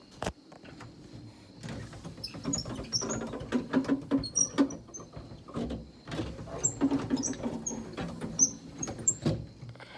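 Door window of a 1968 Saab 95 being wound by hand: the glass and regulator work in the door with a run of clicks, knocks and short high squeaks, after a single click near the start.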